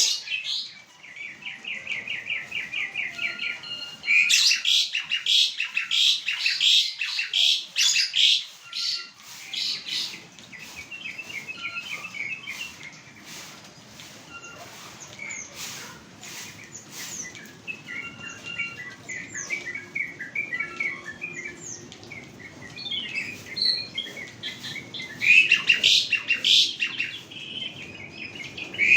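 An Asian pied starling (jalak suren) singing a varied song of rapid repeated chirps, whistles and harsher notes. It comes in loud spells about four seconds in and again near the end, with quieter chattering in between.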